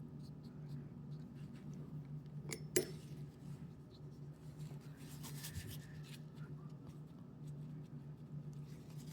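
Faint scratching of a watercolor brush working paint on paper, with a sharp light click a little under three seconds in, over a steady low hum.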